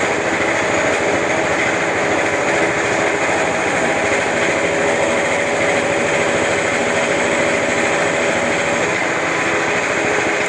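Homemade CNC lathe running steadily: an even mechanical noise with a constant whine.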